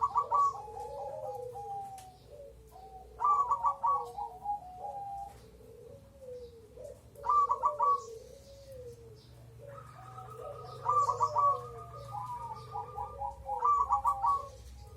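Crossbred zebra doves cooing, more than one bird at once: a steady run of soft rolling coos with louder stuttering coo phrases breaking in every three to four seconds.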